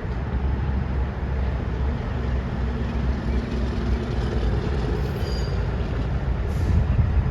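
Maintenance-of-way truck running past on the railway track, a steady low rumble.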